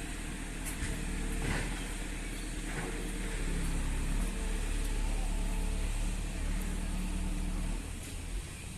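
A motor vehicle's engine running close by, with a steady low hum that builds through the middle and eases off near the end.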